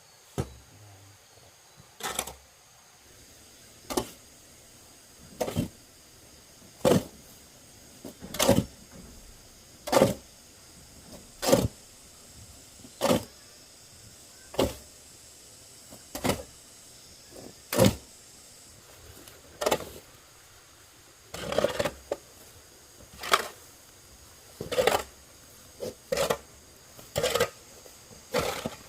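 A steady series of sharp knocks, about one every second and a half, some of them doubled, like repeated blows of a hand tool at work.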